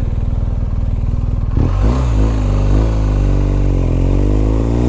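Motorcycle engine running on the road. Its low pulsing is steady at first, then its pitch wavers, and from about four seconds in it climbs steadily as the bike accelerates.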